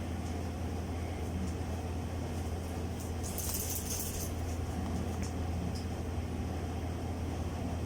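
A steady low hum runs throughout. About three seconds in comes a brief, roughly one-second rustle of paper as the guidebook's pages are handled, with a few faint ticks around it.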